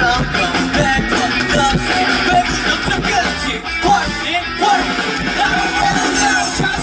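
Live rock band music with electric guitar and a singing voice, played loud and without a break.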